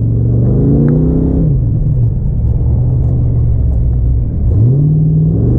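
Car engine under way, revs climbing for about a second, then dropping and running low for a couple of seconds, then climbing again near the end.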